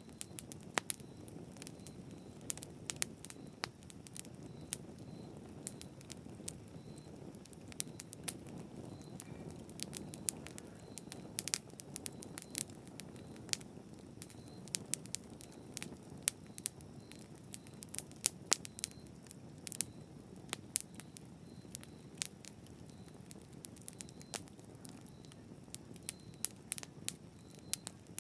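Campfire burning, with sharp irregular crackles and pops from the wood over a steady low rumble of the flames.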